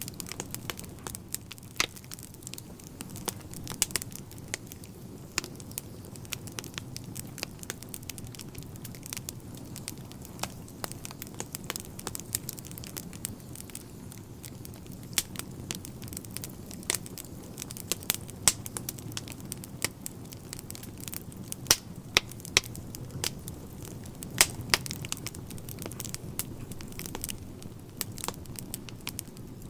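Wood fire burning in a fireplace: a steady low rumble of the flames with frequent irregular crackles and sharp pops of the burning logs.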